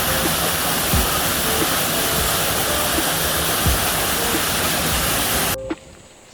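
Waterfall rushing, a loud steady roar of falling water that cuts off abruptly about five and a half seconds in.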